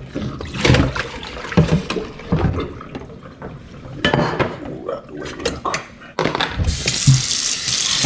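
Scattered knocks and handling clatter, then about six seconds in a tap is turned on and water runs hard and steadily into a sink.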